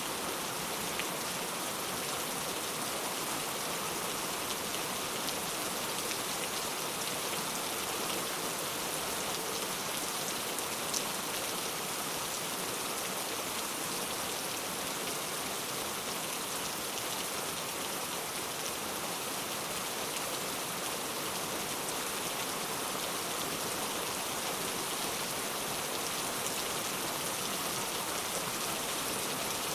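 Heavy rain falling steadily, a dense even hiss with fine patter of drops on surfaces and an occasional sharper drop tick.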